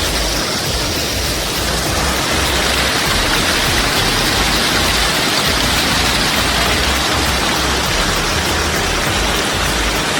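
Waterfall rushing: a loud, steady roar of falling water, with an uneven low rumble underneath.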